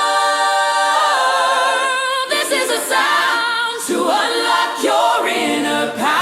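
Music: wordless a cappella vocal harmonies, long held notes with vibrato that move to new pitches every second or so, with no bass or drums.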